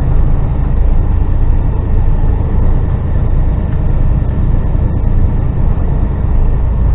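HGV lorry's diesel engine running steadily at low road speed, a deep even drone.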